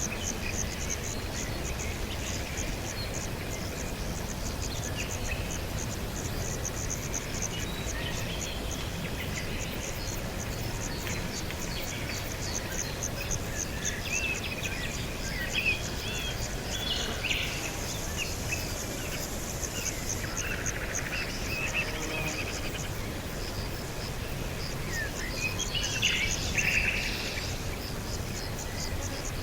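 Small birds chirping and calling in short scattered phrases over a steady pulsing trill of insects such as crickets, with a low background rumble. The bird calls are loudest about halfway through and again near the end.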